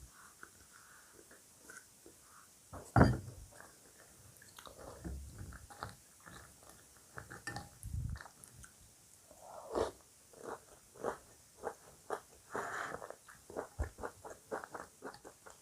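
Close-up chewing of crunchy breakfast cereal: a run of small, irregular crunches and mouth clicks, with one louder knock about three seconds in.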